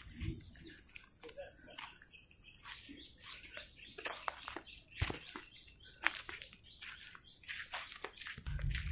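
Birds chirping in many short, repeated calls.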